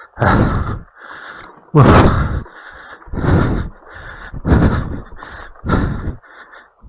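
A man breathing hard and out of breath from pedaling, with heavy exhales into the microphone about once a second.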